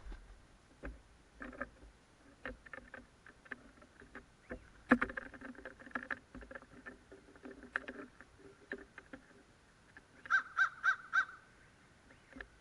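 Crows calling: scattered short, softer calls and clicks, then a quick run of four loud caws near the end.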